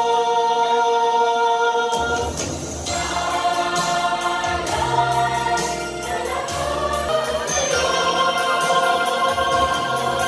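Choir singing a Tagalog Christmas carol in parts: a chord held for about two seconds, then the next phrase sung over steady low notes.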